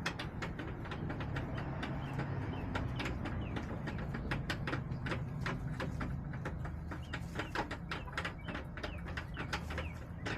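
Backyard hens in a coop, with many sharp, irregular taps, several a second, over a low steady hum.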